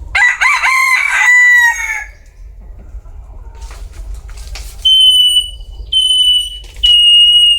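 Bantam rooster (gà tre) crowing once, a call of about two seconds. Near the end come three steady high-pitched beeps, about a second apart.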